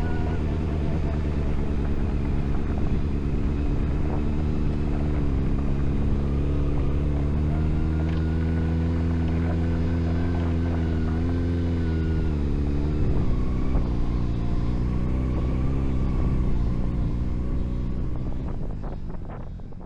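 Honda CB400SF inline-four engine running under way at a steady pitch, with a few dips and shifts in pitch around the middle. The sound fades out over the last couple of seconds.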